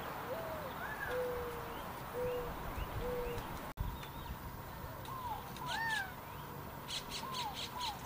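Several birds calling: a run of short whistled notes, some low and steady, others higher and arching, with a quick harsh rasping call a little before the end.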